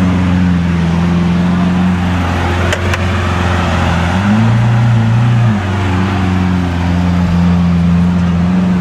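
Car engine droning steadily under road noise; the drone steps up in pitch about four seconds in and drops back a second and a half later.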